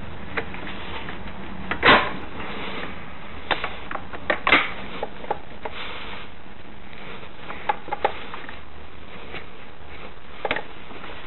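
Scattered clicks and light knocks of hand tools and metal parts being handled while working on a scooter engine, with one louder knock about two seconds in.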